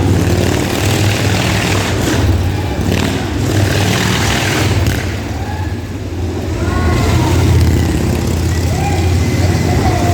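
Motorcycle engines running loudly and steadily, with a noisy crowd in the background.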